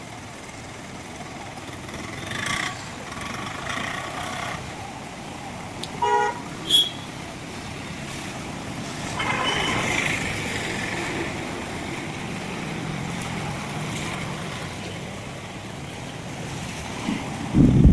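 Road traffic in heavy rain, with vehicle horns honking several times over a steady hiss of rain, and a loud thump near the end.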